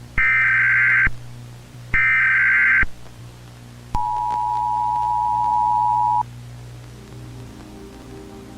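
Emergency Alert System tones: two harsh, buzzy data bursts of about a second each, then a steady two-note attention tone held for about two seconds, over a low hum.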